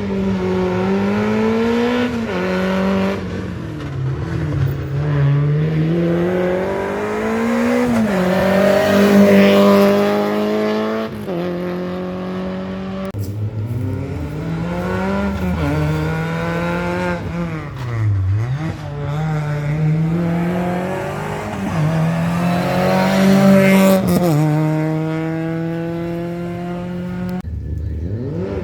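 Rally car engine under full attack on a stage: revs climbing hard again and again, each climb cut off by a quick gear change, with a deep drop in revs about two thirds of the way through before it pulls hard once more. A short break near the end, after which engine sound comes back in.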